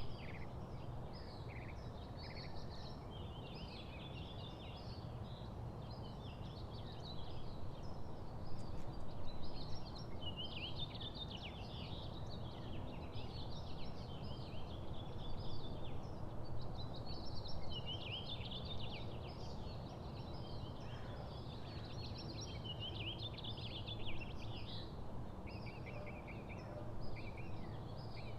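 Small songbirds chirping and twittering, many short overlapping calls and trills in a steady stream, over a constant low background rumble.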